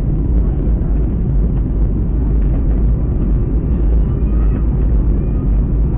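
Steady, loud low rumble of an airliner heard from inside the passenger cabin: engine and airflow noise with no distinct changes.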